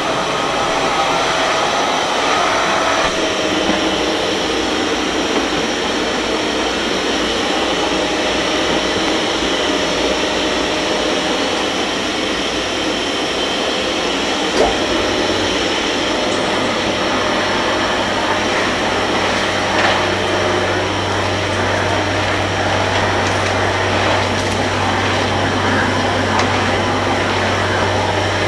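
Kärcher MV 6 P Premium wet-and-dry vacuum cleaner running steadily, with a couple of short knocks. A low hum joins about halfway through.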